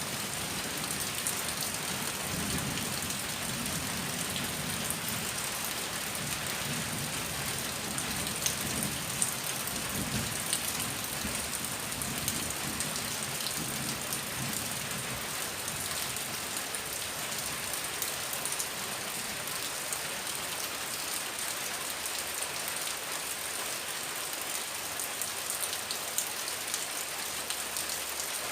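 Heavy rain falling steadily: a dense even hiss with scattered sharp drop ticks. A low rumble runs under it through the first half and dies away about halfway through.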